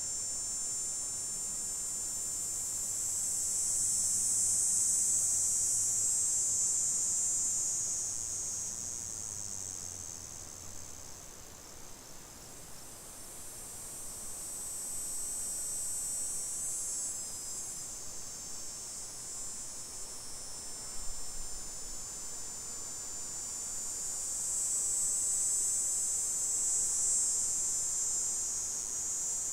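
Insect chorus: a shrill, high-pitched buzzing of many callers that swells and fades three times.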